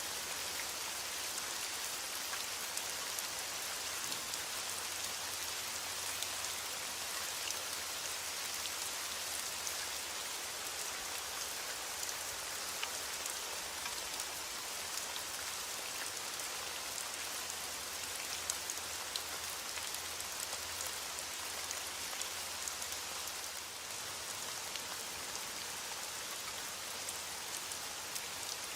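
Steady rain falling on a surface, an even hiss with many fine raindrop ticks and no thunder.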